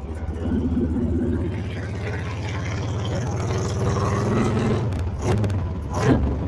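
Honda Fury's 1300cc V-twin under hard acceleration through loud aftermarket pipes, growing louder about half a second in and pulling steadily.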